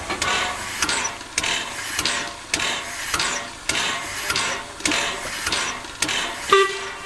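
Steam locomotive working, its exhaust chuffing in an even rhythm of about two beats a second, with a brief pitched tone about six and a half seconds in.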